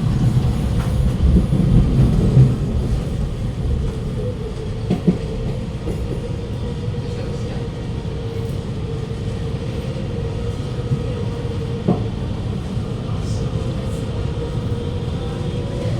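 Alstom Movia R151 metro train running, heard inside the carriage: a steady low rumble with a traction-motor whine that holds one pitch and shifts slightly near the end. A couple of short knocks from the wheels on the track.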